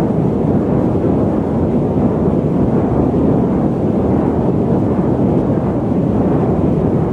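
Loud, steady static noise, a deep rumbling hiss weighted toward low pitches, running on without change.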